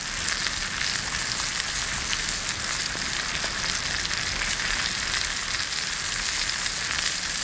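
Cured meat and a melting slice of cheese sizzling steadily in a cast-iron pan over hot coals, with small pops spattering through the sizzle.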